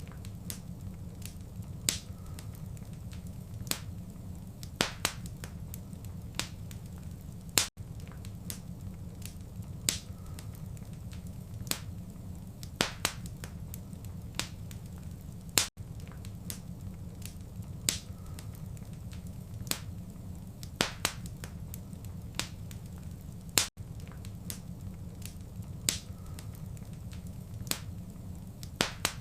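Wood fire crackling in a fireplace: irregular sharp pops and snaps over a steady low rumble of burning. The sound cuts out for an instant about every eight seconds.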